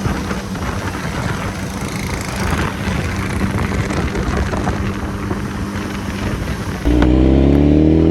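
Wind and road noise from a BMW superbike on the move, then about seven seconds in the motorcycle's engine note comes in suddenly loud, its pitch climbing slowly as it accelerates.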